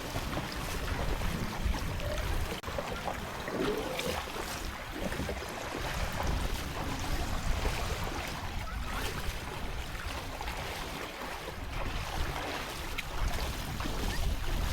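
Wind buffeting the microphone over steady sea and wave noise on open water.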